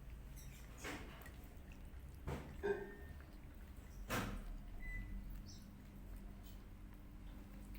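Cats and kittens eating: a few soft knocks and scuffs, the loudest about four seconds in, with a brief squeak near the middle, over a low steady hum.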